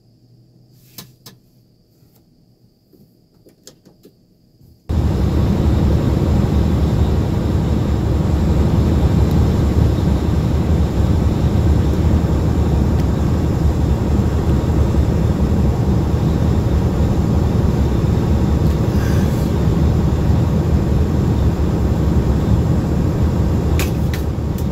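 Steady road and engine noise of a moving vehicle heard from inside the cab, with the most energy in the low rumble. It cuts in suddenly about five seconds in, after a quiet stretch with a few faint clicks.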